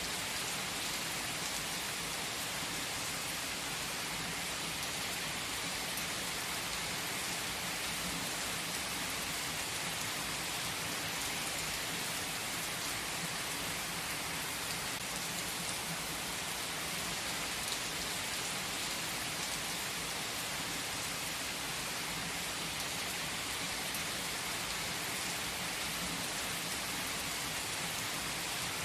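Steady rain: an even, unbroken hiss with faint scattered ticks of drops.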